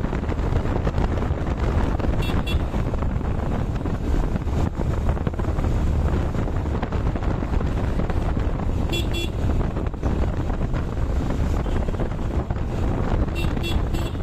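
Wind buffeting the microphone of a moving motorcycle, with its running engine underneath. Short, high horn beeps sound three times: about 2 seconds in, about 9 seconds in, and near the end.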